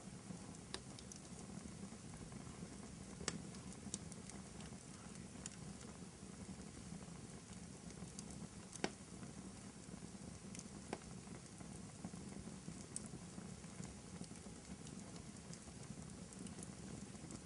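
Fireplace crackling: a steady low rumble of burning wood with scattered small pops and snaps, two louder pops about three seconds in and near nine seconds in.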